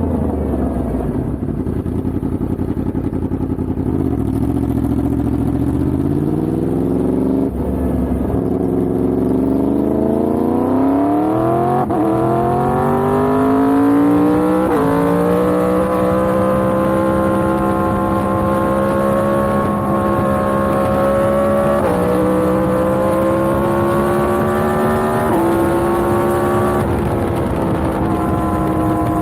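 Yamaha MT-10's crossplane inline-four engine pulling through the gears. Its pitch climbs and drops sharply at each upshift, three times, then it holds a steady pitch, changing only in small steps near the end.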